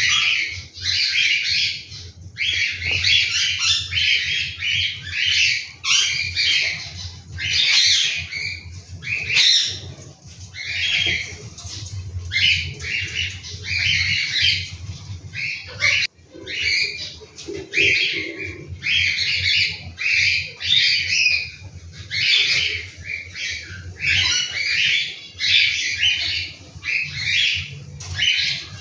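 Cockatiel chicks giving harsh, raspy squawking calls again and again, over a low steady hum.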